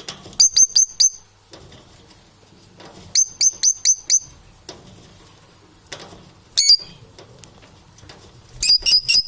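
Parrots chirping in quick runs of four or five sharp, high notes, with a run every couple of seconds.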